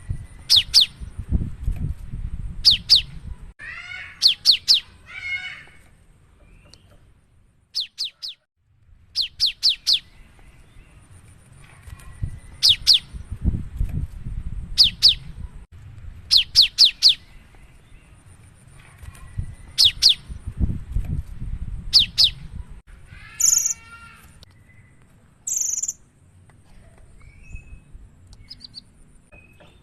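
Cinereous tit singing hard, repeating quick bursts of two to four sharp, high descending notes every couple of seconds, with a few harsher chattering phrases in between. A low rumble comes and goes underneath.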